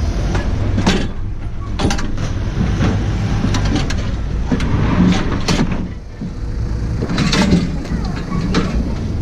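A vehicle's engine running with a steady low rumble, with scattered knocks and rattles throughout.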